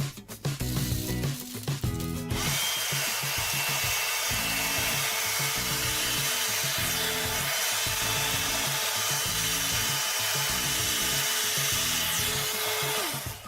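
Battery-powered DIY mini handheld vacuum running: its small electric motor and fan give a steady whirring whine that starts about two seconds in and winds down with a falling pitch as it is switched off near the end. Background music plays underneath.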